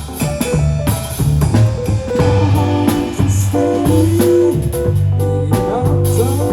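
A live band playing instrumental music: electric guitar lead with sliding notes over bass and a drum kit.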